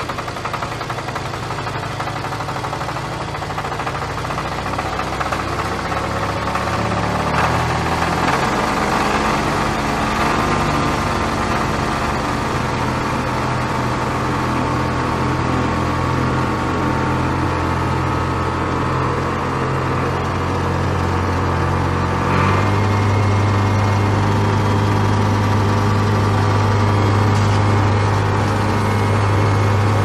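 Farm tractor engine running steadily. Its engine note shifts about eight seconds in, then changes again and grows louder about twenty-two seconds in.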